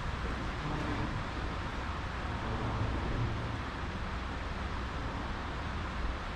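Steady outdoor background noise: an even rushing hiss with a low rumble underneath and no distinct events.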